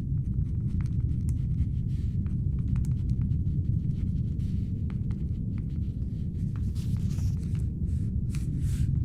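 Steady low spaceship-interior hum with scattered light clacks of laptop keyboard typing over it, and a few soft rustles near the end.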